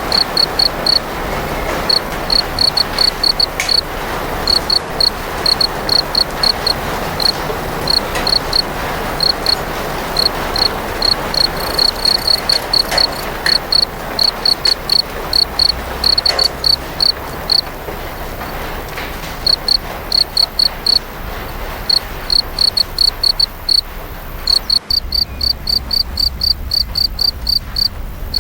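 Cricket chirping in quick runs of high pulses over a steady hiss of rain. About 25 seconds in, the rain hiss drops away suddenly after a click, and the chirping carries on in a steadier run.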